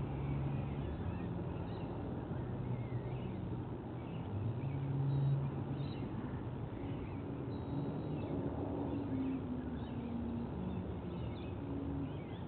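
Distant engine hum whose pitch drifts slowly up and down, under faint, scattered high bird chirps.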